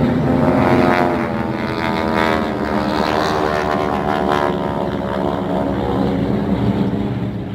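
Propeller airplane engine droning as the plane flies past, fading out near the end.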